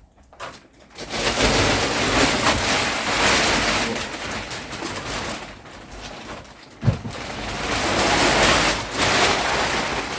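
Plastic wrapping of a vacuum-packed foam mattress being pulled and dragged off it: loud, continuous crinkling and rustling. It eases off for a moment past the middle, with a single knock near then, and picks up again.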